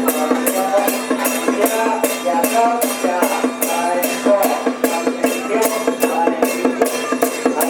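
Procession music: a wavering melody over steady percussion strikes, about three a second, with a constant low drone underneath.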